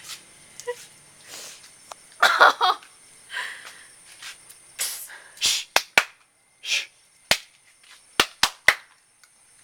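A run of sharp clicks and snaps, several in quick succession, with brief rustling noises in between.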